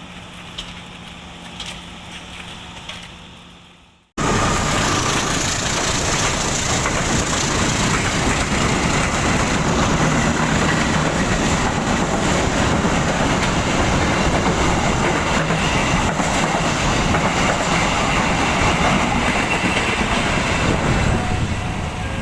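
A quiet steady hum of a standing train, then, after a sudden break about four seconds in, loud steady rumbling noise of a passenger train running on the rails that fades out near the end.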